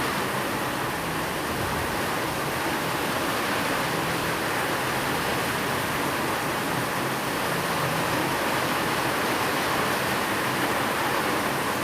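Steady rain falling: an even, unbroken hiss with no separate drops standing out and no thunder.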